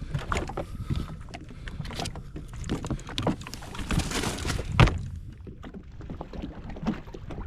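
Water slapping and lapping against the hull of a jet ski drifting on the harbour, over a steady low rumble, with scattered clicks and knocks and one louder knock just before the middle.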